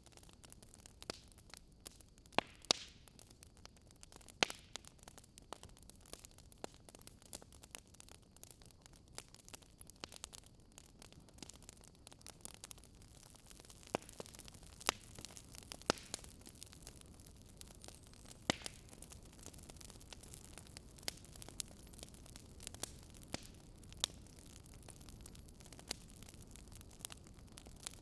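Wood fire crackling in a fireplace: irregular sharp pops and snaps over a low steady hiss of flames.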